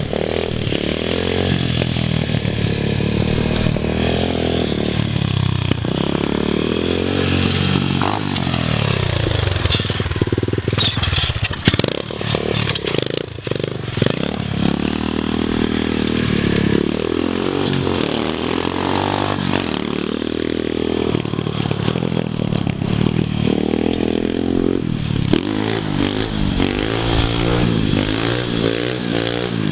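Dirt bike engine running while being ridden, its pitch rising and falling again and again as the throttle is opened and closed.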